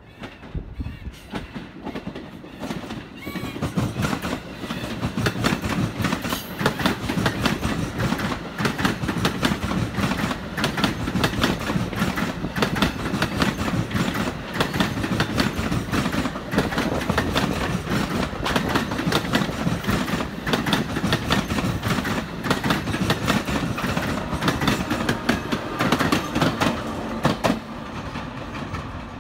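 Passenger train passing close by, its wheels clattering in a fast, steady run of clicks over the rails. The sound builds over the first few seconds and drops off sharply near the end.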